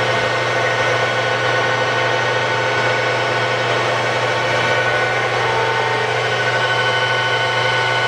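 Kearney & Trecker 205-SA horizontal milling machine running steadily at its top spindle speed of 1500 RPM: a constant hum with several steady high tones from the spindle drive and gearbox.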